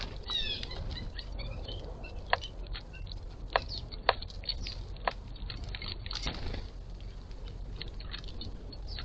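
Birds feeding at a bird feeder: scattered sharp clicks and taps of pecking and seed cracking, with a quick run of short high chirps near the start.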